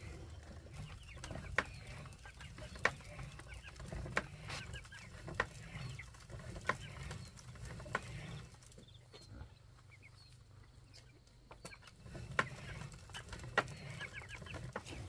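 Chickens clucking and chirping over a low steady hum. A sharp knock repeats about every second and a quarter, stopping for a few seconds past the middle, then starting again.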